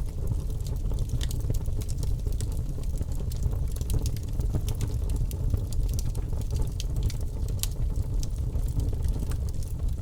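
Wood fire burning in a fireplace: many small, sharp crackles and pops scattered irregularly over a steady low rumble of the flames.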